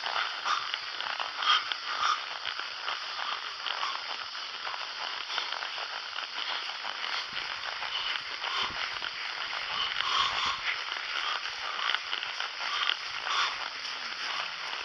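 Steady outdoor noise full of small crackles and rustles, with no single loud event.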